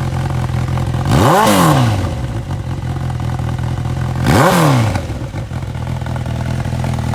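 Honda CB1000R's inline-four engine idling through aftermarket titanium exhausts, blipped twice about three seconds apart, each rev rising sharply and dropping back to idle.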